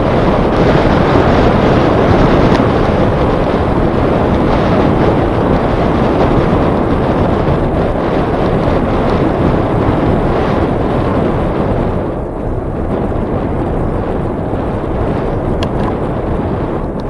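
Wind buffeting the microphone of a camera carried on a moving bicycle: a steady, loud rushing that eases a little about twelve seconds in.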